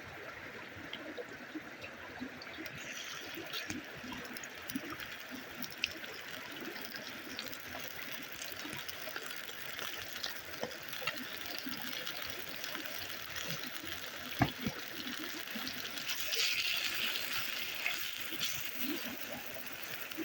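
Water running steadily, with scattered small clicks and one sharp knock about fourteen seconds in; it grows a little louder and brighter near the end.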